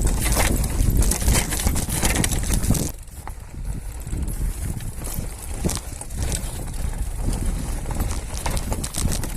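Mukuta Knight e-bike rolling over a rough dirt trail: tyres crunching and the bike rattling in a stream of irregular knocks, over a low rumble. Loudest for the first three seconds, then quieter.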